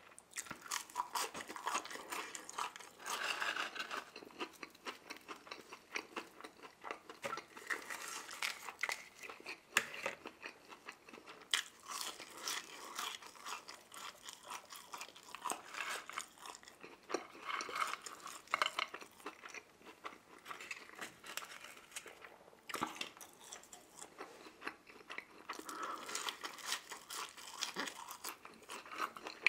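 A person biting and chewing McDonald's chicken nuggets and French fries, with irregular crisp crunches.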